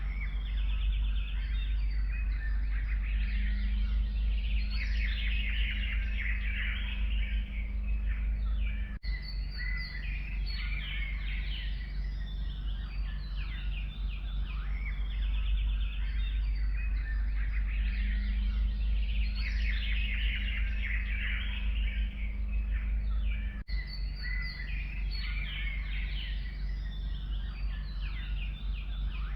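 Forest birdsong: several small birds chirping and trilling together, over a steady low background rumble. The sound drops out briefly twice.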